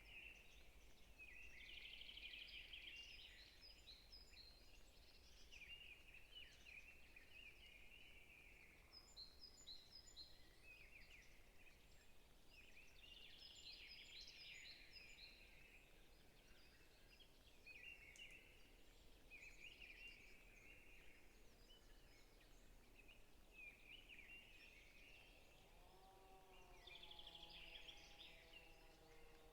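Faint chorus of forest songbirds chirping and trilling in overlapping phrases. Near the end a lower, drawn-out sound with several pitch layers joins in.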